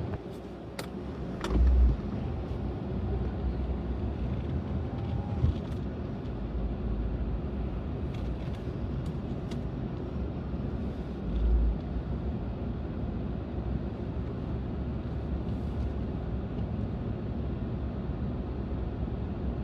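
Steady low rumble of a Ram Bighorn pickup running at slow speed, with a few light clicks and two brief low thumps, about a second and a half in and again near the middle.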